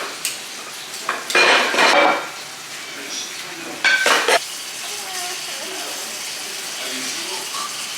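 Dishes and metal utensils clattering and clinking in two bursts, about a second in and again about four seconds in.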